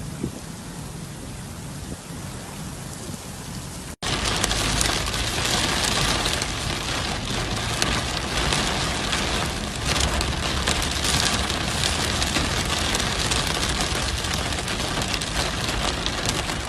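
Heavy rain falling steadily. About four seconds in it cuts to a louder, closer downpour with a dense patter of drops striking a hard surface.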